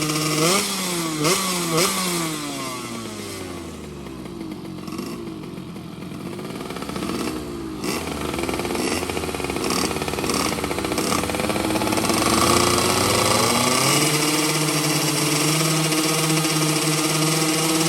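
Two-stroke underbone racing motorcycle engines revving: quick throttle blips in the first two seconds, then engine pitches sweeping up and down, and in the last few seconds one engine held steady at high revs.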